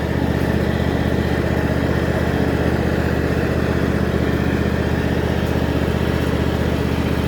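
Tractor engine running steadily as it drives along, with an even low drone and no change in speed.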